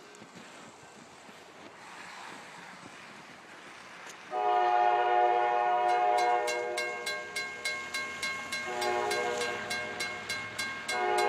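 A freight locomotive's multi-chime air horn sounding a chord, starting sharply about four seconds in as the train approaches. The blast breaks briefly near nine seconds, stops again about a second before the end, then starts once more. Under the horn, from about six seconds in, comes a rapid, even clicking of train wheels over the rail joints.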